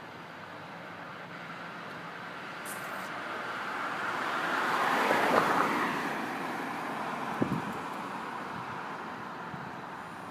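A vehicle passing by: a noisy rush that swells to a peak about halfway through and fades away, with a brief low knock shortly after.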